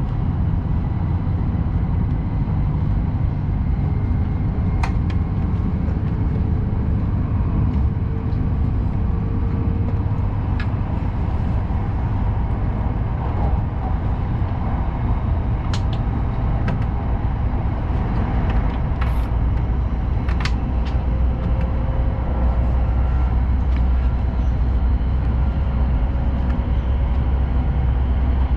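Steady low rumble and hiss of a Hayabusa Shinkansen train running, heard from inside the passenger car, with a few faint clicks scattered through.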